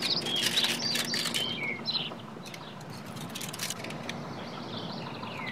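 Wild birds chirping in short, quick calls, busiest in the first two seconds, with a few light clicks.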